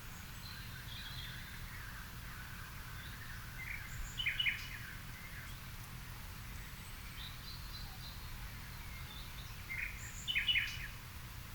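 Several garden birds chirping and calling in the evening. One bird gives the same short burst of rapid notes twice, about six seconds apart, louder than the rest, over a steady low background rumble.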